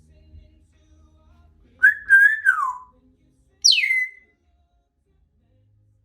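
Congo African grey parrot whistling: a held whistle that drops in pitch at its end, then a quick whistle swooping steeply downward.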